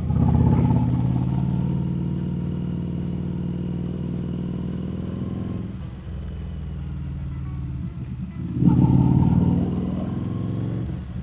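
Harley-Davidson Street Rod 750's V-twin engine running under a rider's throttle. It opens up loudly right at the start and again about nine seconds in, easing off briefly around six and eight seconds.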